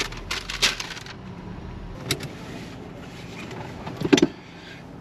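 Vehicle engine idling with a low steady hum, a rustle in the first second, a click about two seconds in and a short knock near four seconds.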